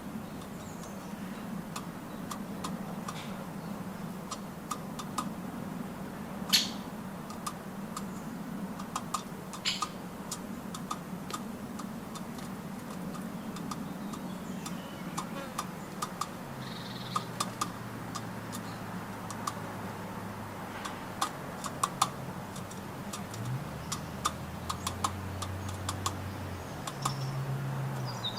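Birds pecking and tapping at nuts: irregular, sharp clicks, with the loudest taps about six and ten seconds in. A low steady hum runs underneath.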